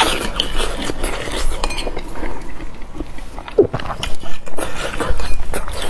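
Close-up chewing and mouth sounds of someone eating cured pork, with scattered sharp clicks of utensils.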